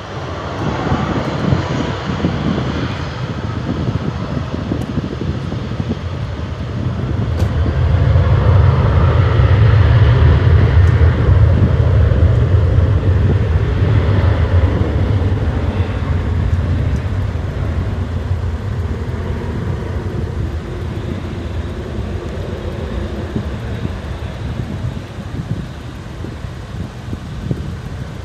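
Jet airliner's engines passing by, growing to their loudest about ten seconds in and then slowly fading away.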